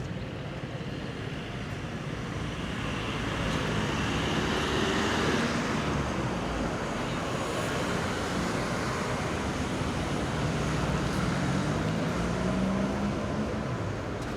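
City street traffic: motor vehicles driving past, the noise swelling for most of the stretch, with one engine rising in pitch as it speeds up near the end.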